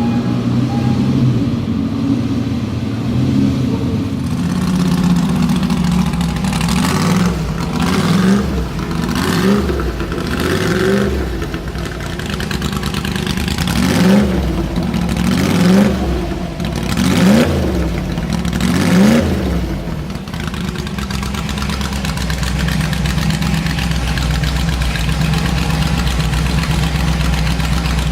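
Shelby Daytona Cobra Coupe's V8 idling through its exhaust, then revved in about seven short throttle blips, each rising and dropping back, before settling back to a steady idle.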